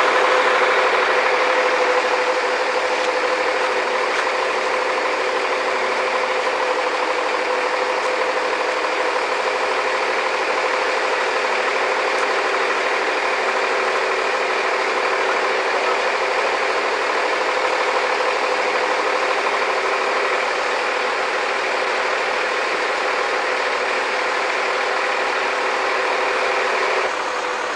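An engine running steadily at a constant speed, with a steady hum and no changes in pitch; it drops slightly in level just before the end.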